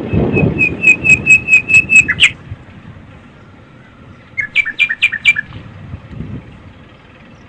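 A bird calling: a quick run of about eight clear whistled notes on one pitch that ends in a sharp downward note, then about two seconds later a shorter run of four or five notes. A low rumble sits underneath for the first couple of seconds.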